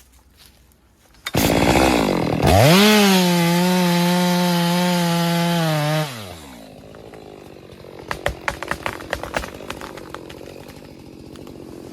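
Two-stroke chainsaw revving up to full throttle, holding a steady high note for a few seconds, then dropping back off about six seconds in. A run of sharp cracks and snaps follows.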